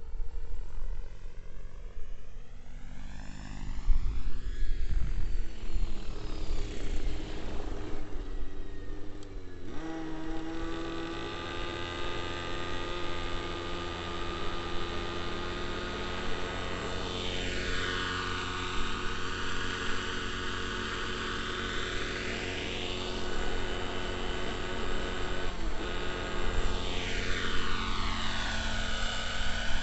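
Neo Caliber 50 radio-controlled helicopter's nitro glow engine and rotors running in flight: a steady buzzing drone whose tone sweeps up and down as the helicopter moves about. The note changes abruptly about ten seconds in.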